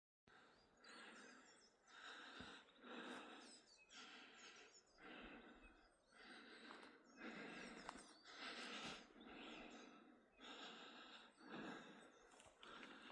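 Faint, rhythmic heavy breathing of a hiker walking the mountain trail, with a soft puff about once a second.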